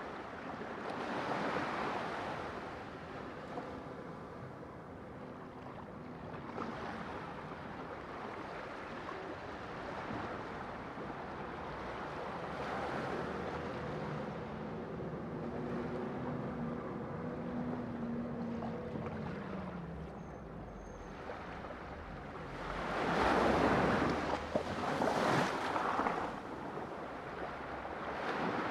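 Sea waves breaking and washing ashore, rising and falling in slow swells, with two stronger surges close together near the end.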